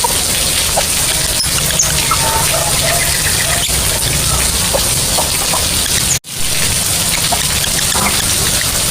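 Lovebird calling in short, high squeaky chirps over a steady hiss. The sound cuts out for an instant about six seconds in.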